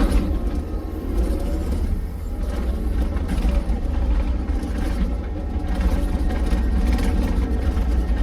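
An engine running steadily with a deep rumble and some clatter over it.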